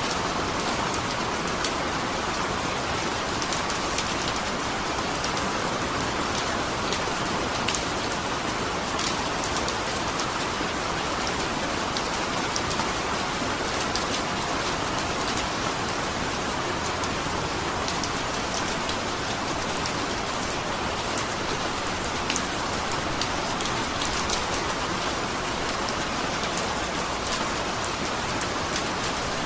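Steady rain falling, with a continuous wash of rain and scattered sharp little drip ticks of individual drops landing on a surface.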